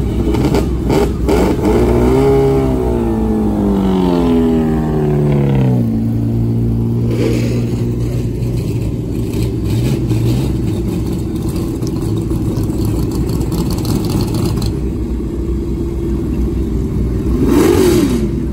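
A car engine revs up briefly and winds down over several seconds to a steady idle. It gives a short throttle blip about seven seconds in and another near the end.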